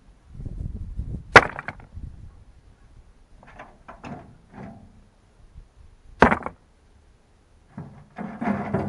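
Digging and stone work in a clay pit: scraping and rustling with scattered knocks, two of them sharp and loud about five seconds apart, and a denser spell of scraping near the end.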